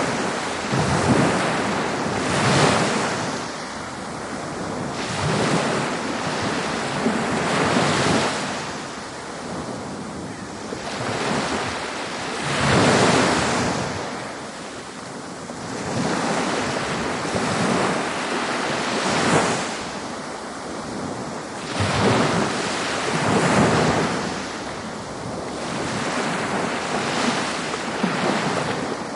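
Ocean waves breaking and washing up a beach, swelling and fading every few seconds in a continuous surf.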